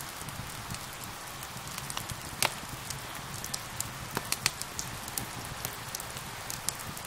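Steady rain hiss mixed with a crackling wood fire: scattered sharp pops and crackles over the rain, the loudest pop about two and a half seconds in and a few more close together around four and a half seconds.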